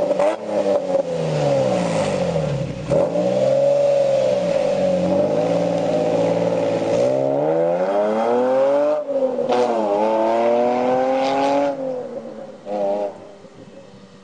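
Nissan 350Z's 3.5-litre V6 through an HKS aftermarket exhaust, revving up and down several times, the engine pitch swinging high and low. About twelve seconds in the revs fall away, with one short blip before it fades.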